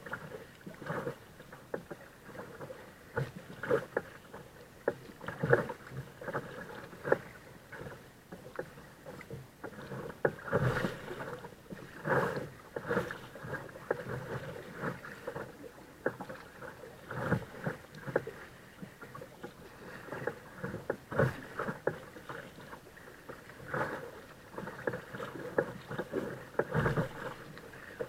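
Kayak on the water: paddle blades splashing in and out and water slapping against the hull, in uneven splashes every second or two over a steady wash of water.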